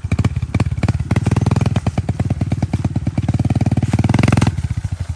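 Pit bike engine running under way with a steady, rapid firing beat. It pulls harder and louder from about a second and a half in, then eases off near the end.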